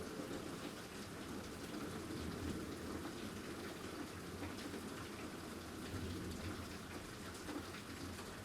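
Steady rain from a severe thunderstorm falling on surfaces, the downpour starting to ease off.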